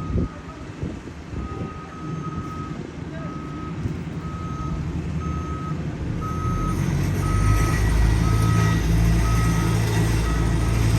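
Reverse alarm on a piece of paving equipment, beeping steadily about once a second over its diesel engine. The engine grows louder about six seconds in.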